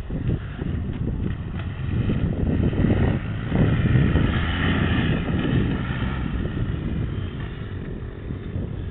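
BMW HP2's boxer-twin engine running under throttle, growing louder about two seconds in, peaking around four to five seconds and easing off after that.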